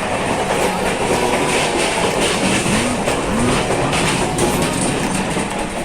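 Express passenger train running at speed, heard from inside the coach: a steady rumble with the clickety-clack of wheels over the rails. Two short rising-and-falling tones sound about three seconds in.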